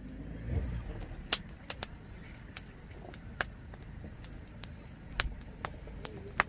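Wood fire crackling, with irregular sharp pops about every half second to second over a low rumble.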